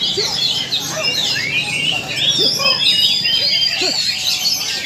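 Several oriental magpie-robins (kacer) singing over one another at a songbird contest, in rapid, varied whistled phrases with a longer held whistle partway through, over the murmur of a crowd.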